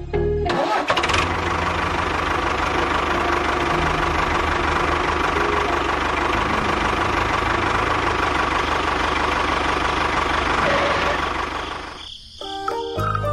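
Small engine of a homemade mini tractor running steadily with a fast, even firing pulse. It starts about half a second in and cuts off near the end.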